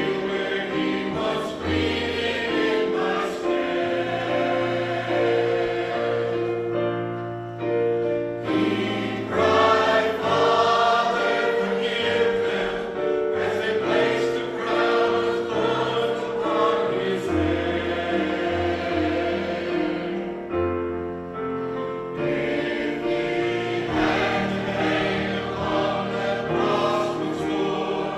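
A choir singing a slow piece in long held notes, with sustained bass notes beneath.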